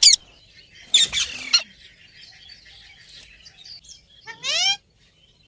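Parrot calling: a loud short squawk at the start, a harsh screech about a second in, and a rising whistled call near the end.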